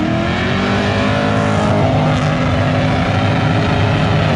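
Toyota FJ LandCruiser engine held at high revs in a burnout, its rear tyres spinning on the pad. The engine note climbs briefly at the start, then stays steady.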